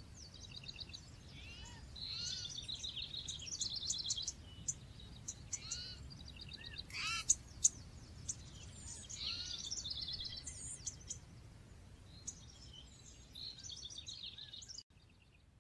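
Several birds chirping and singing, with fast repeated-note trills and short arching whistles, over a low steady background rumble. The sound cuts off suddenly near the end.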